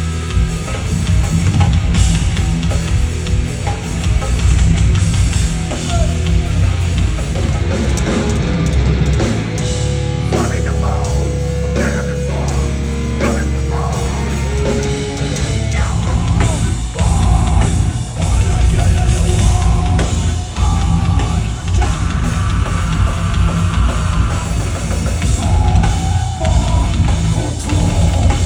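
Heavy metal band playing loud and live, with drum kit and distorted electric guitars.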